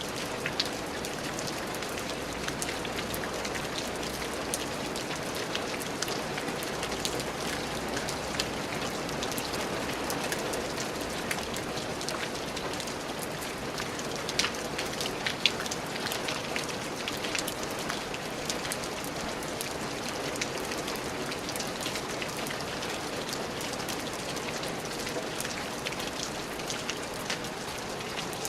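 Steady rain falling on a surface, a constant hiss with many individual drops ticking and splatting through it, a few louder drops hitting now and then.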